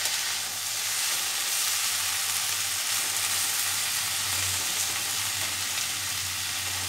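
Onion flower stalks and potato frying in oil in a stainless steel kadai, a steady sizzle.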